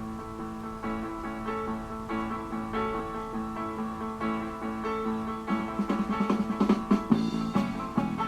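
Instrumental intro of a pop song's karaoke backing track: plucked guitar over held chords with a steady beat. A busier run of quick picked notes comes in about five and a half seconds in.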